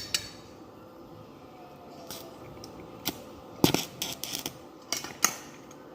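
Irregular sharp metallic clicks and clinks, as of metal tools or parts being handled, about eight in all with the loudest and a quick cluster a little past the middle.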